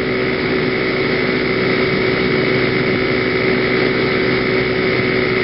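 Genuine Buddy 125 (PGO BuBu) scooter's single-cylinder engine running steadily at cruising speed, with road and wind noise. Heard from a helmet-mounted camera.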